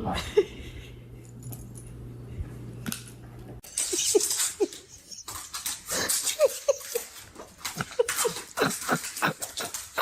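A dog whimpering and yelping in many short, high cries over rustling and scuffling. Before the yelps there is a steady low hum, which stops suddenly a little over three seconds in.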